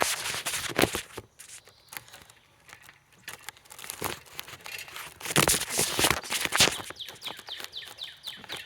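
Handling noise from a phone being fumbled with and repositioned: irregular rustling, scraping and knocks right on the microphone, with a quieter stretch from about one to three and a half seconds in. Short bird chirps come through near the end.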